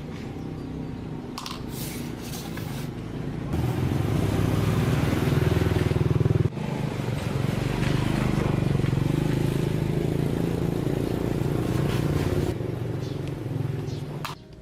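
Small two-stroke chainsaw engine running, getting louder about a third of the way in, with a sudden break in the middle, then easing off and cutting away just before the end.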